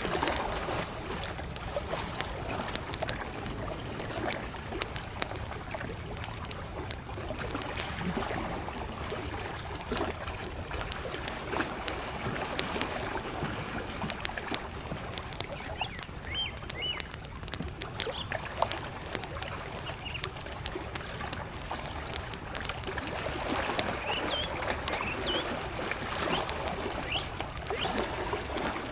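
Wood campfire crackling with frequent sharp pops over small lake waves lapping at the shore. A bird chirps briefly a few times, around the middle and again near the end.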